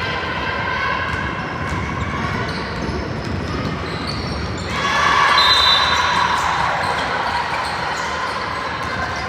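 Youth team game in a gym: a ball bouncing on the court and sneakers squeaking. Spectator voices swell about five seconds in, then settle.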